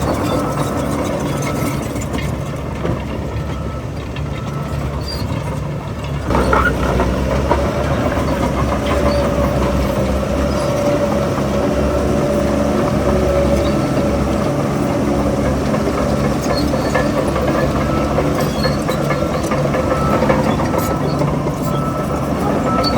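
Heavy diesel engine of earthmoving machinery running steadily, growing louder about six seconds in.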